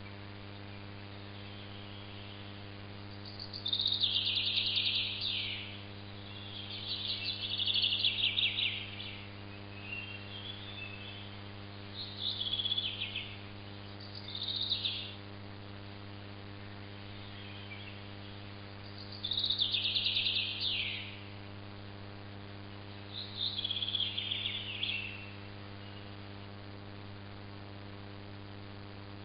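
A bird calling in irregular bursts of rapid, high trilling chirps, about seven of them, each falling in pitch at the end, over a steady electrical mains hum.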